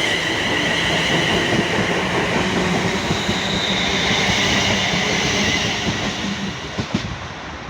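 Class 350 Desiro electric multiple unit running through the station, a steady high whine over the rumble of its wheels, fading near the end.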